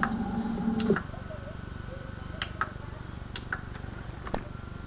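A steady mechanical hum that stops about a second in, then a handful of sharp, scattered light clicks and ticks over a faint steady background.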